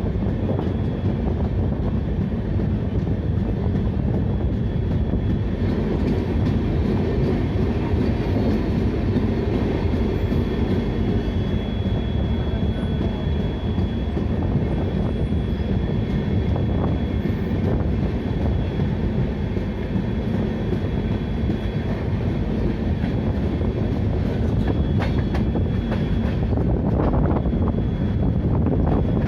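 A train running with a steady rumble.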